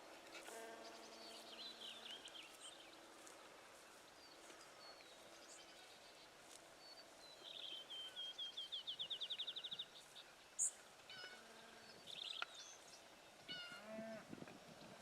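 Faint outdoor birdsong: several small birds chirping, with a fast trill of rapidly repeated high notes lasting a couple of seconds about halfway through. A single sharp click follows shortly after.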